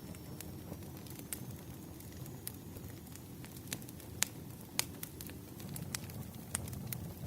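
Wood fire crackling in a fireplace: irregular sharp pops and snaps over a low steady rumble, with the two loudest pops about four and five seconds in.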